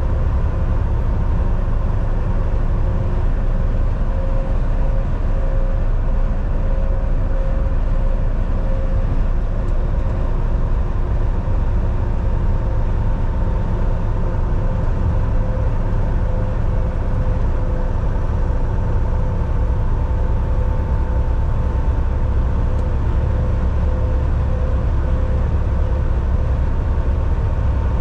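Volvo VNL 760 semi truck cruising on the highway, heard from inside the cab: a steady low engine drone and road rumble with a faint, constant whine.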